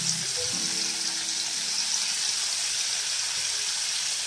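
Paneer cubes frying in hot oil in a pan, giving a steady sizzling hiss.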